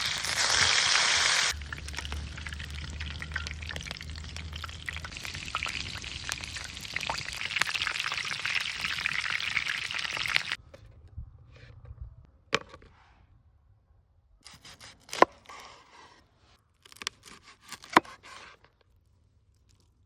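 Lamb ribs sizzling in hot fat over a campfire: a steady frying hiss with small crackles for about ten seconds that cuts off abruptly. A handful of sharp knocks follows.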